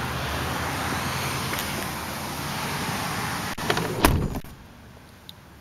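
Steady rushing background noise, then a click and a solid thump about four seconds in as a car door on a 1990 Hyundai Sonata is shut. After the thump the noise drops away.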